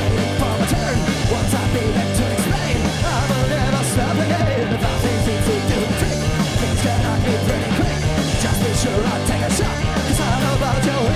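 Live punk rock band playing: distorted guitars, bass and drums with cymbal crashes, and sung vocals.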